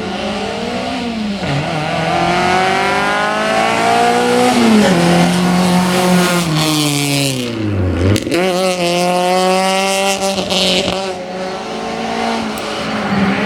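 Citroën Saxo VTS hillclimb car's engine at full throttle, revs climbing and dropping back at upshifts about one and a half and four and a half seconds in. Revs then fall sharply to a low point near eight seconds, as when braking and downshifting for a bend, before climbing again under acceleration.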